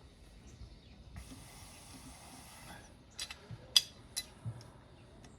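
A hiss lasting about a second and a half, then a few scattered sharp clicks and clinks of tools being handled during engine work.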